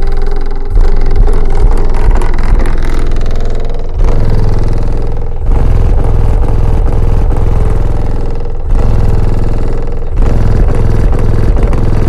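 Bass-heavy rap music played very loud through a car audio system's subwoofers, with strong, pulsing deep bass beats.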